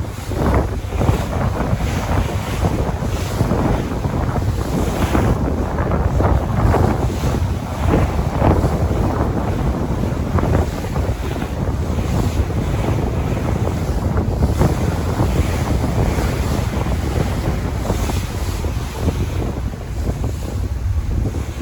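Sea waves washing on the shore, with wind buffeting the microphone: a continuous rushing noise, heavy in the low end, that surges every second or so.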